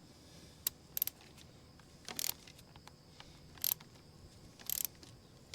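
A wrench and bolt-extractor socket working a broken bolt on a small engine: five short metallic clicking bursts about a second apart.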